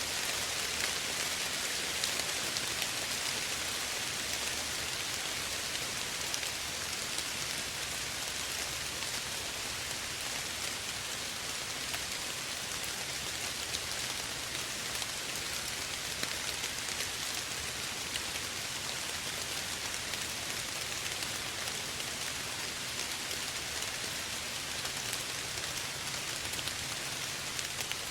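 Steady soft rain falling on a surface, an even hiss of many drops with small individual patters.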